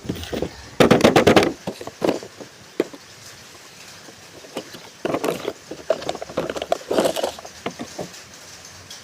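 Toy packaging being handled and opened: irregular bursts of crinkling and rustling with small clicks and knocks, loudest about a second in and again from about five to seven seconds.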